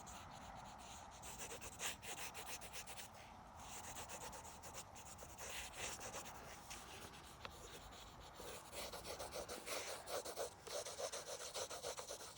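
Drawing on paper: a sketching tool scratching across the sheet in loose strokes, turning into quicker, short back-and-forth strokes in the last few seconds.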